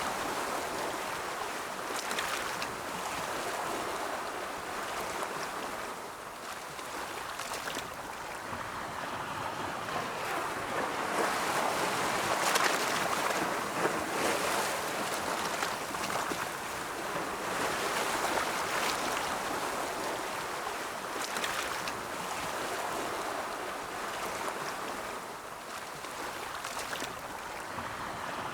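Ocean waves rolling onto a shore: a continuous wash of surf that swells and eases as each wave breaks and draws back.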